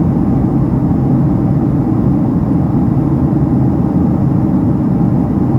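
Boeing 767-300ER cabin noise: a steady, loud rumble of the jet engines and airflow heard from inside the passenger cabin, with a faint hum over it.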